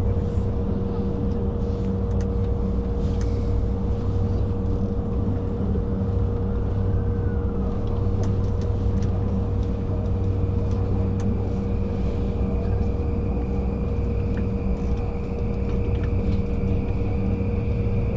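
Commuter train running between stations, heard from inside the carriage: a steady low rumble of wheels on rails with a constant hum. A thin high whine joins about ten seconds in.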